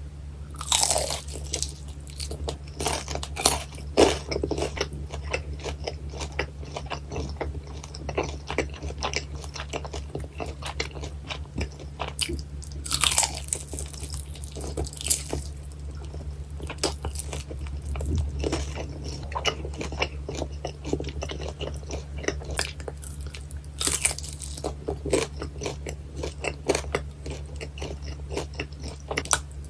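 Close-miked biting and chewing of crispy battered fried pork (guobaorou): repeated crackly crunches with several louder bites, over a steady low hum.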